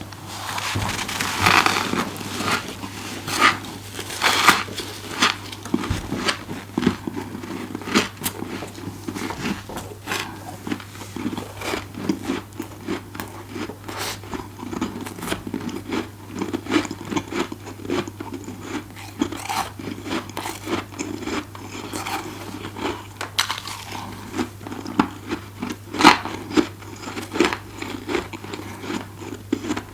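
Close-up crunching and chewing of soft deep-freezer frost: repeated bites with crisp crackles, some louder crunches a few seconds apart, and chewing in between. A steady low hum sits underneath.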